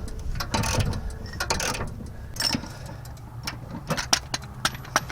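Wrench turning a lawnmower blade's mounting bolt loose: a run of irregular metallic clicks and knocks, with a few short scrapes in the first couple of seconds.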